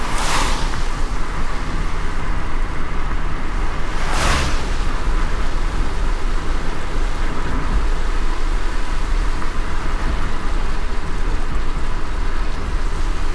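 A car driving on a wet road in light rain: a steady low road rumble under an even rain hiss. A brief louder swish comes at the start and again about four seconds in.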